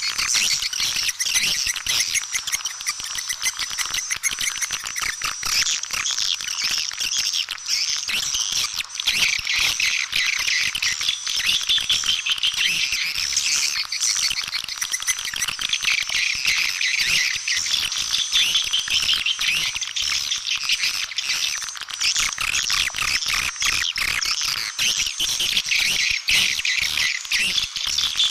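Edible-nest swiftlets twittering: a dense, unbroken chatter of rapid high chirps and clicks. It is a swiftlet lure call, the sound played to draw swiftlets into a nesting house.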